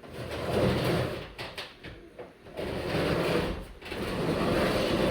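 A small table being dragged and set down on the floor: rough scraping in three irregular stretches, with knocks.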